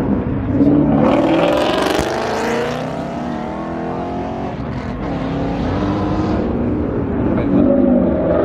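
A car engine revving: its pitch climbs from about a second in, then eases back and keeps running.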